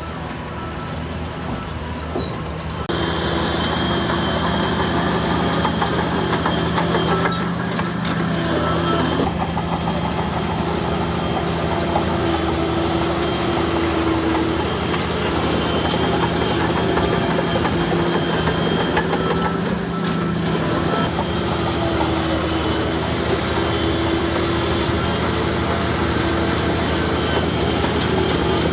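Diesel engine of heavy earthmoving machinery running steadily with a faint whine over it, growing louder about three seconds in.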